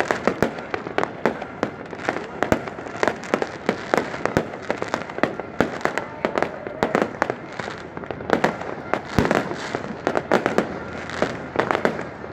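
Fireworks going off: many sharp bangs and pops in quick, irregular succession, overlapping over a constant crackling haze.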